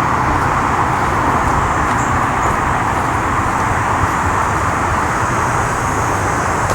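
Steady roar of freeway traffic from nearby State Route 315, a constant wash of tyre and engine noise with no single vehicle standing out.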